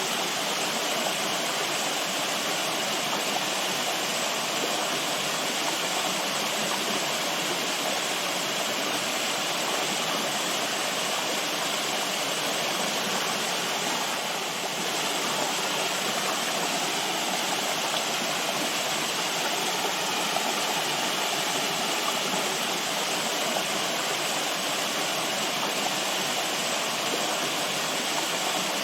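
Running water from a stream or small waterfall, a steady, even rush without breaks.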